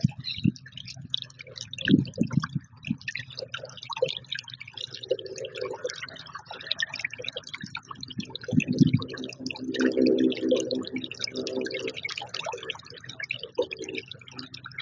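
Small songbirds chirping and twittering in a busy, overlapping chorus, with a few low thumps and stretches of a lower, steady-pitched sound.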